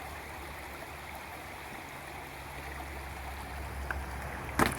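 Steady rushing of a stream, with a couple of sharp knocks near the end.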